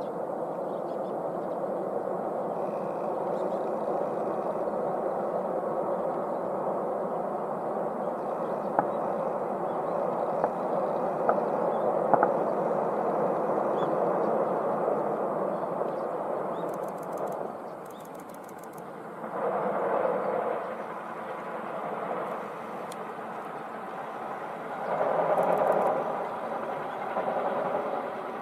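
Electric train running by on the rails: a steady rush of running noise that fades about seventeen seconds in, followed by two shorter swells of the same noise. Short runs of rapid high ticking come in twice during the quieter part.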